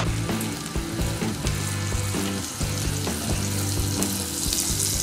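Diced pancetta sizzling steadily as it fries in hot oil in a nonstick frying pan, over low background music.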